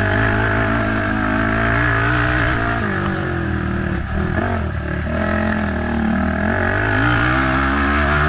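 Race ATV engine running under throttle over rough ground, its pitch rising and falling with the throttle. About three to four seconds in the revs drop off briefly, then the engine pulls back up.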